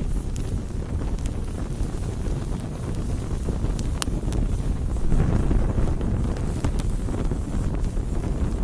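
Wood campfire burning: a steady low rushing with occasional sharp crackles and pops. One louder pop comes about four seconds in, and the rushing swells briefly around five seconds.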